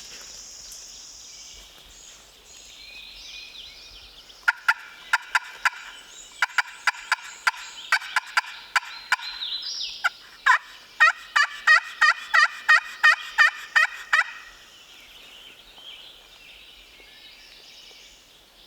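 A long series of turkey yelps in the hen turkey's pattern, about two a second, then quicker and louder for the last few seconds before stopping suddenly. Faint songbird chirps sound before and after the series.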